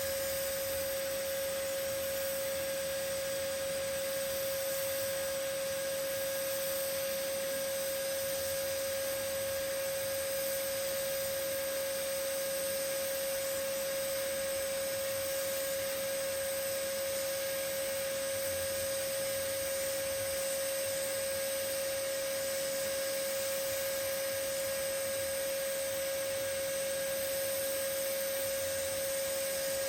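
TIG welding arc running on a carbon-steel fillet joint during a weld pass: a steady single-tone hum over an even hiss.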